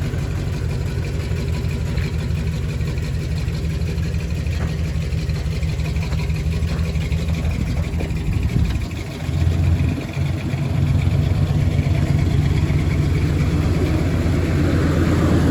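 Truck engine running steadily at low revs; about nine seconds in it drops away briefly, gives a short rev, and then runs louder.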